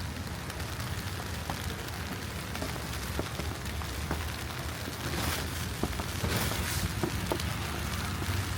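Snowy city street ambience: a steady low rumble with faint scattered ticks and a noisy hiss. Two brief hissing swells come about five and six seconds in.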